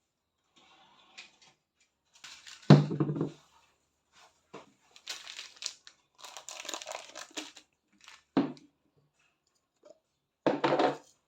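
Crinkling and rustling of something being handled, broken by a loud knock about three seconds in and shorter thumps near the end.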